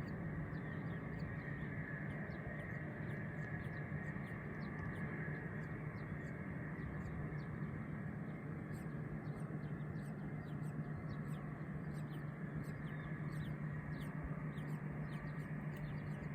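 Birds chirping: many short, quick high chirps scattered throughout, over a steady low hum.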